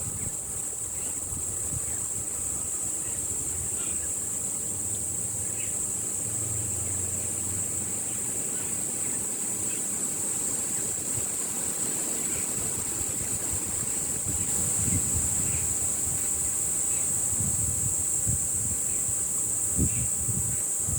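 Wind buffeting the microphone in gusts, growing stronger in the last several seconds, over a steady high-pitched hum, with faint, brief bird chirps scattered through.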